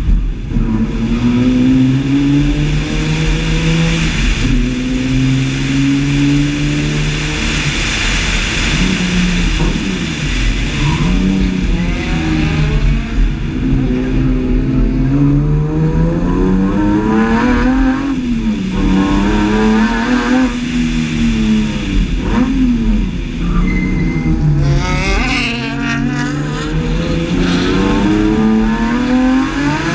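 BMW E30's S50B32 straight-six driven hard on a tight course, its revs rising and falling many times as it accelerates out of and brakes into the turns.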